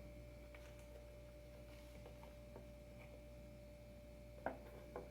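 Near silence: a faint steady room hum with a few small clicks, the sharpest about four and a half seconds in and another just before the end.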